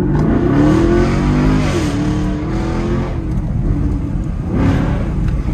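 Chevrolet Camaro SS's 6.2-litre V8 under hard acceleration, climbing in pitch, with two drops in pitch as it shifts up through the gears.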